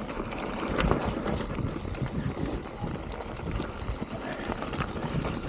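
Mountain bike rolling down a rough trail: a steady rumble of tyres over dirt with frequent rattles and knocks as it crosses roots and rocks.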